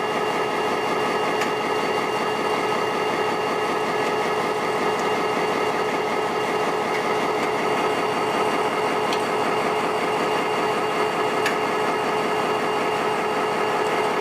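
EMD GT22 diesel-electric locomotive's engine running steadily after start-up, an even mechanical sound with a few steady whining tones over it.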